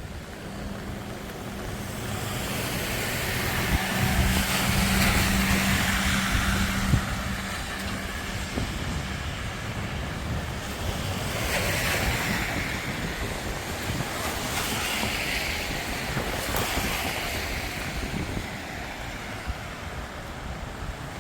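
Vehicles passing on a wet road, the tyre hiss swelling and fading three or four times, the first pass the loudest, over steady rain.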